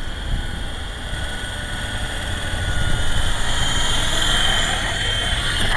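Small electric twin-blade MJX RC helicopter's motors and rotors whining, the pitch rising a little and growing louder through the middle as it fights a light gust of wind. A low wind rumble sits underneath.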